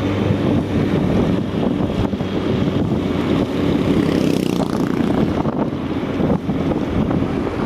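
A car driving through a flooded road: a steady rush of engine, tyre and water noise, with a brief hissing swell about four seconds in.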